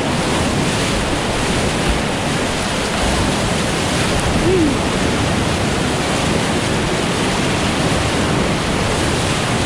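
Steady, loud rushing of river whitewater, an even roar with no let-up.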